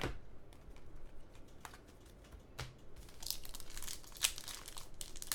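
Trading card pack wrapper crinkling and tearing as a pack is opened, after a few light taps and clicks of card handling. The crinkling starts about three seconds in.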